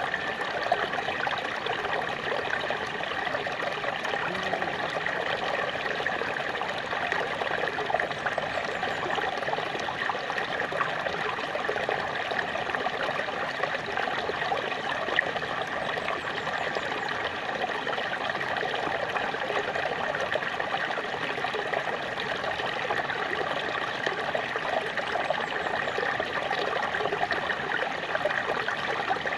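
Small waterfall: water falling and splashing in a steady, even rush with a trickling texture.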